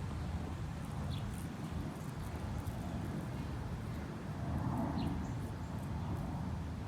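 Steady low outdoor city rumble, with a few short high chirps about a second in and again about five seconds in.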